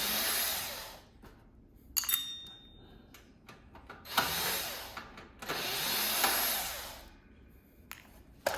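Power drill driving out screws from a metal heater casing, run in three short bursts of about a second each, with sharp clicks and clatter between them.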